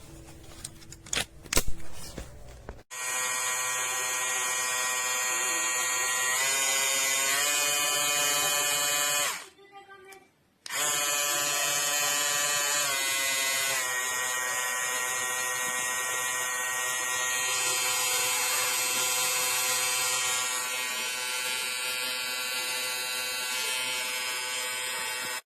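Cecotec PrecisionCare X-Trimm Pro electric shaver's motor running with a high, steady buzzing whine, shifting pitch slightly a few times. It starts after a few clicks, cuts out for about a second midway, then starts again.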